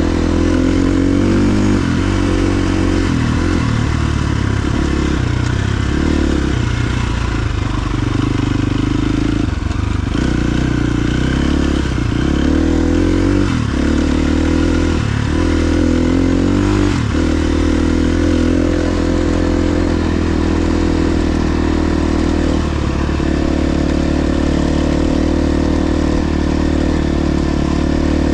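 KTM 350 XC-F dirt bike's single-cylinder four-stroke engine running under riding load, its pitch dropping and climbing again many times in the first half as the throttle is rolled off and on, then holding steadier.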